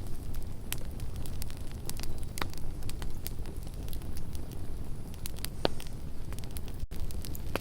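Campfire burning with a steady low rumble and irregular sharp crackles and pops, a few louder pops standing out. There is a split-second dropout in the sound near the end.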